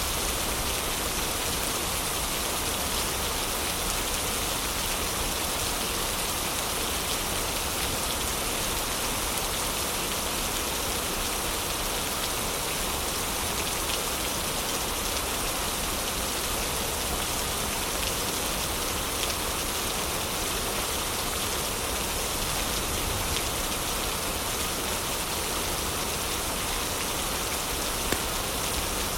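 Steady heavy rain falling, an even, unbroken hiss with a couple of faint sharp ticks near the end.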